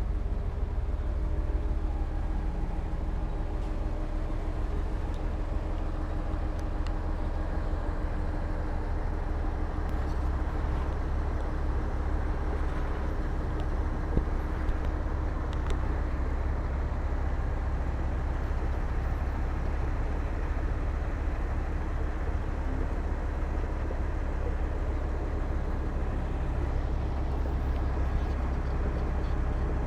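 Heavy diesel construction machinery running steadily, a continuous low engine rumble.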